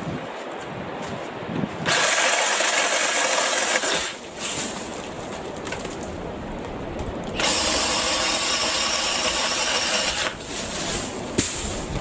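BLACK+DECKER 18V cordless saw cutting tree branches, running in two bursts: one of about two seconds starting about two seconds in, and one of about three seconds in the second half.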